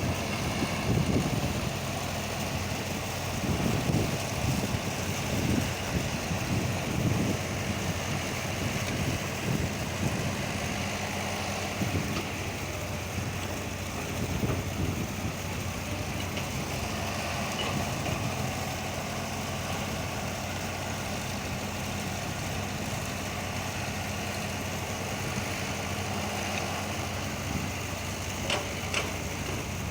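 Old Bedford truck's engine idling steadily.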